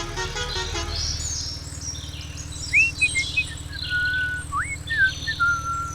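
Birds chirping and whistling: short rising whistles, held whistled notes and quick high chirps, over a steady low hum. A short run of pitched, tune-like notes ends about a second in.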